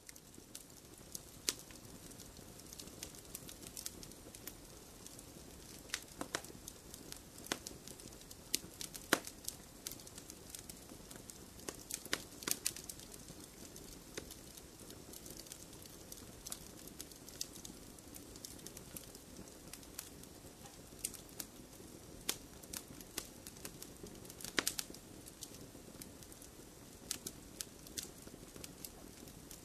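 Wood fire in a fireplace crackling: a steady soft hiss with frequent irregular snaps and a few sharper pops.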